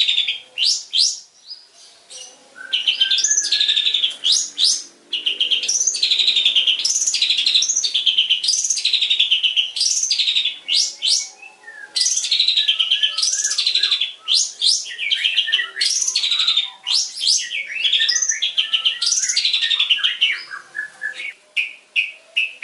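Long-tailed shrike (cendet) singing a fast, varied chattering song of rapid trills and sweeping notes, in long bursts broken by short pauses.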